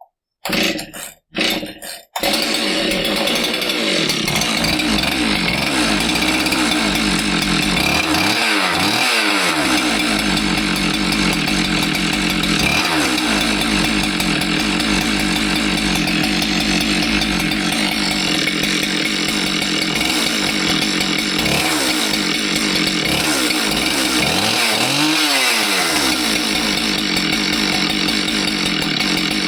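Husqvarna 372XP two-stroke chainsaw engine being pull-started. It fires in a few short bursts and catches about two seconds in, then runs steadily and loud. It is making a distinctive noise that the mechanic later traces to something rolling around in the cylinder and banging on top of the piston.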